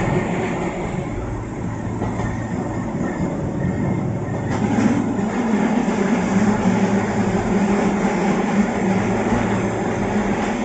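Running noise inside a Keihan 600 series railcar under way: a steady rumble of wheels on rail, with a low hum that grows stronger about halfway through.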